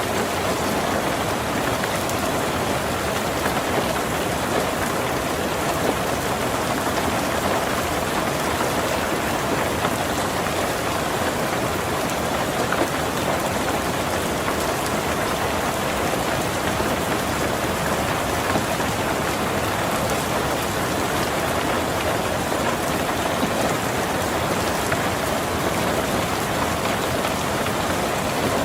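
Heavy rain drumming steadily on a tin roof, a dense even wash of drops.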